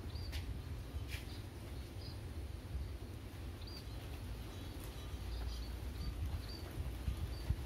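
Small birds chirping: short, high chirps repeated on and off over a steady low outdoor rumble, with two light clicks in the first second or so.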